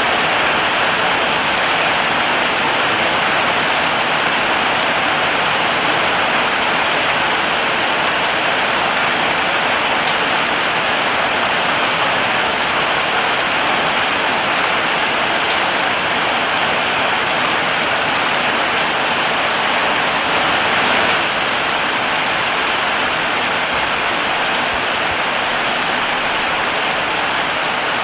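Heavy rain falling steadily, an even hiss of drops on surfaces with no pauses or changes.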